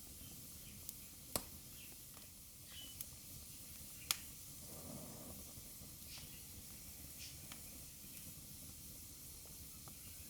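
Wood fire burning in a fireplace: a faint, steady hiss with scattered sharp crackles and pops, the two loudest about a second and a half and four seconds in.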